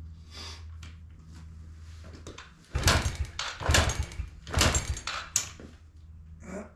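Yamaha TTR90 single-cylinder engine being turned over with a compression gauge in the plug hole and the throttle wide open. After a low steady hum, four loud strokes come about a second apart.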